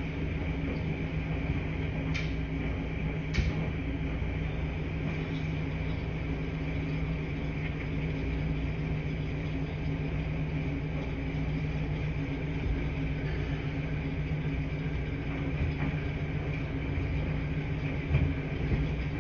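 Steady low hum of running washing machines, with a couple of faint clicks about two and three seconds in.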